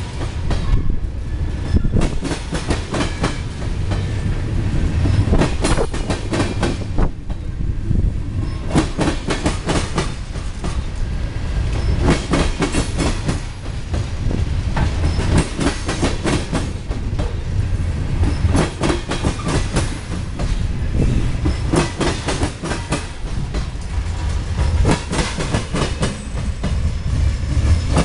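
CSX freight train of tank cars rolling past, with a steady rumble and the wheels clattering and banging over the double diamond rail crossing in a quick, uneven run of knocks.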